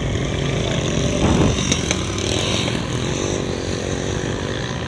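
Street traffic with vehicle engines running, including what sounds like a motorcycle going by; it is loudest about a second and a half in.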